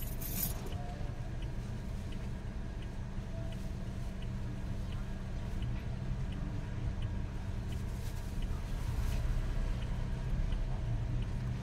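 Steady low hum of a car idling, heard inside the cabin, with faint even ticking about every half second.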